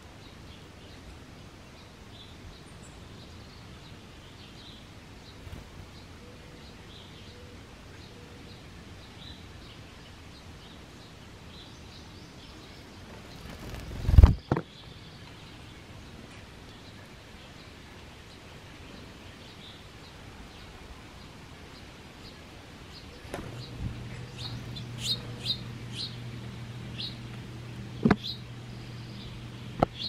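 Small songbirds chirping faintly and intermittently over outdoor ambience, the chirps growing more frequent near the end. About halfway through there is a single loud thump, and in the last few seconds a low steady hum comes in along with a few sharp clicks.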